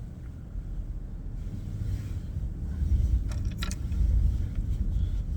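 Car driving, heard from inside the cabin: a steady low road and engine rumble that slowly grows louder as it pulls away, with a faint brief sound about three and a half seconds in.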